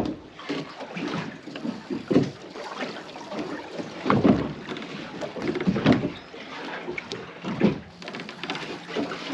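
Water slapping against the hull of a small open fishing boat (a panga) in irregular splashes about every second, over steady wind and water noise.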